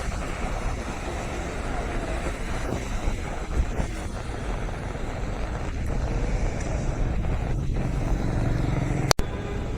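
Steady rumble of road traffic with wind buffeting the microphone, and a sharp click about nine seconds in.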